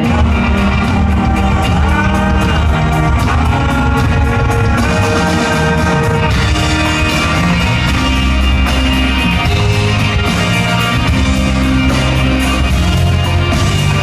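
Live band playing loud country-rock with electric guitar, bass, drums and singing, recorded from the audience.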